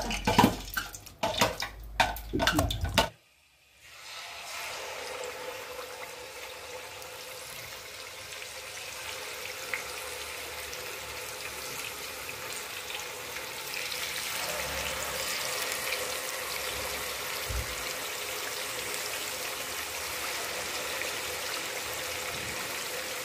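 For the first few seconds, knocks and wet handling noise come from chicken being worked by hand in marinade in a steel bowl. After a short break, marinated chicken pieces fry in hot oil in a pan with a steady sizzle that gets a little louder about halfway through.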